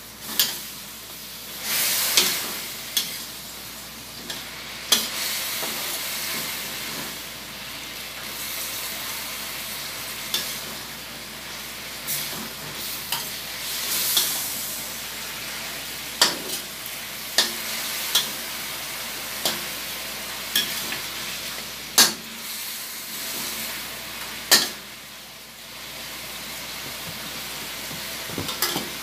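Chicken pieces sizzling as they fry in a steel wok on a gas burner, stirred with a metal spatula that knocks and scrapes against the wok at irregular moments. The hiss of the frying dips briefly near the end.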